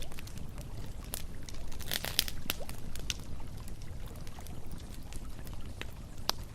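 Campfire crackling and popping in irregular sharp snaps, with a small cluster about two seconds in. A river flows in the background as a steady low rush.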